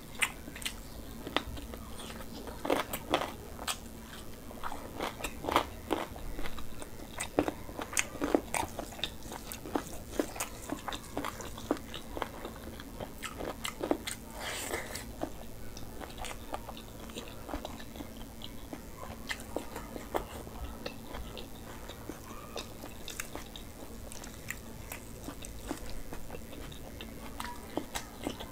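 Close-up chewing and biting of a person eating rice and chicken curry by hand: wet smacks, crunches and clicks at an irregular pace, busiest in the first half.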